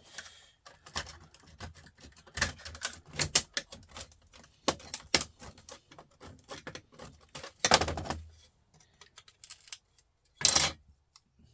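A metal hand tool clicking and scraping against small metal laptop parts, in irregular sharp clicks and knocks, with two longer scrapes about eight and ten and a half seconds in.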